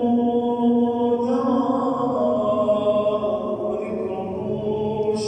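A man's voice chanting a devotional supplication in long, drawn-out melodic phrases, holding each note and shifting pitch between them.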